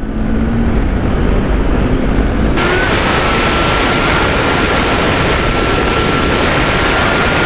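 Kawasaki Ninja 400 under way, its parallel-twin engine note under loud wind rush on the microphone. About two and a half seconds in the wind noise jumps abruptly louder, and a thin steady whine comes in that rises slowly in pitch as the bike gathers speed.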